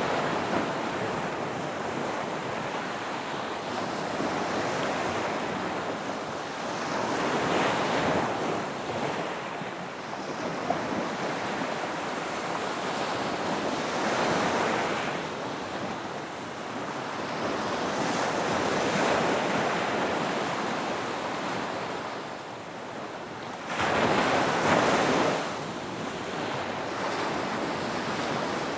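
Ocean waves breaking on a beach, a continuous wash of surf that swells as each wave comes in about every six or seven seconds, the loudest breaking suddenly about three-quarters of the way through. Some wind is mixed in.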